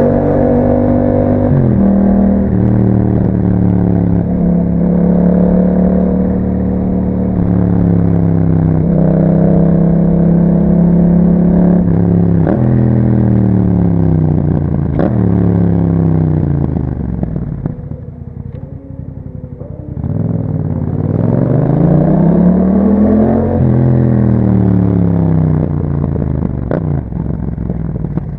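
Yamaha MT-07's parallel-twin engine through an Akrapovic exhaust, heard on the move. The revs climb and drop back in steps as it changes gear, then fall away to a low, quieter note about two-thirds of the way through. It rises once more and falls again.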